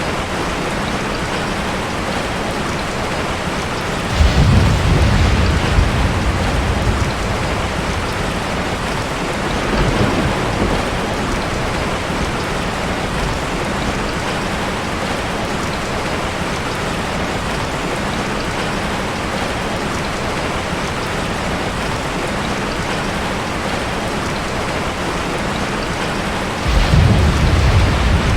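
Heavy rain falling steadily, with rolls of thunder breaking in about four seconds in, more faintly around ten seconds, and again near the end.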